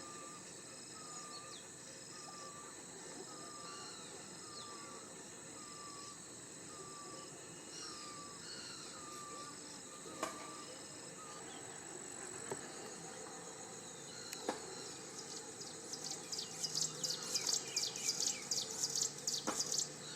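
Outdoor insect chorus: a steady high cricket-like drone, with a short falling chirp repeated a little more than once a second through the first half. Louder rapid high chattering fills the last few seconds.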